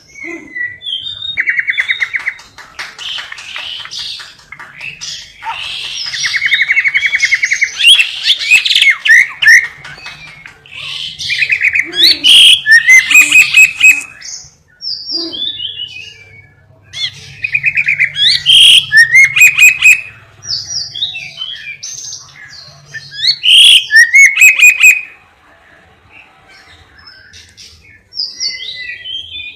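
Caged songbird singing a master song made of lovebird- and canary-style phrases: fast buzzing trills and sharp chirps, in four loud bursts separated by short quieter pauses.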